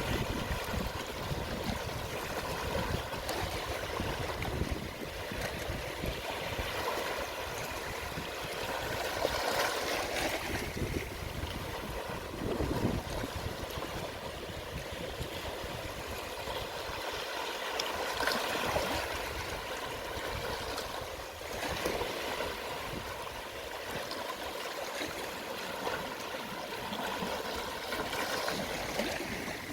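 Calm, small sea waves at low tide washing gently onto the shore, with a steady wash of water. The wash swells and fades every several seconds.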